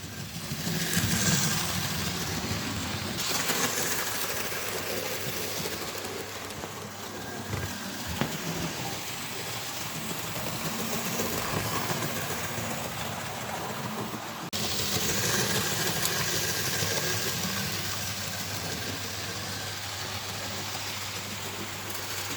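A model railway locomotive running on track: a steady electric-motor whir and wheel rumble. It gets suddenly louder about 14 seconds in.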